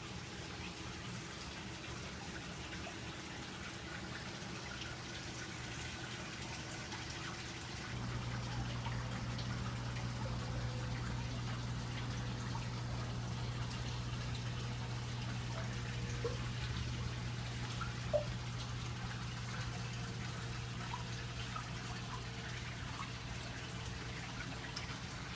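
Reef aquarium water circulating: a steady trickle and splash of moving water over a low pump hum that gets louder about eight seconds in, with a few faint ticks.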